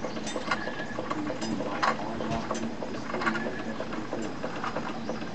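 Wilesco toy steam engine running under steam, driving a countershaft and a tin wind-up toy through belts and pulleys: a steady mechanical whirr with a faint hum and irregular small clicks and rattles.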